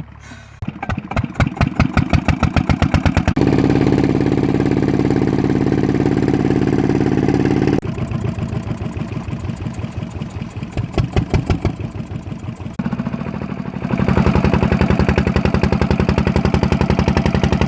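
Old stationary engine driving a tubewell pump, starting about half a second in and then running with a fast, even beat. Its sound changes abruptly several times, as between cut clips.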